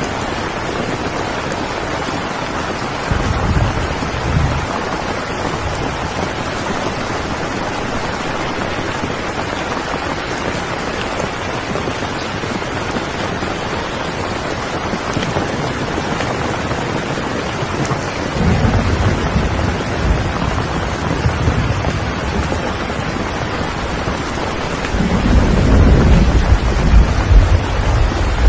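Steady rain, with low rumbles of thunder: a short one about three seconds in, a longer one past the middle, and the loudest near the end.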